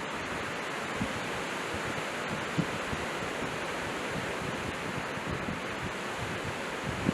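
Strong blizzard wind blowing steadily, with brief low thumps of gusts buffeting the microphone, the clearest about one and two and a half seconds in.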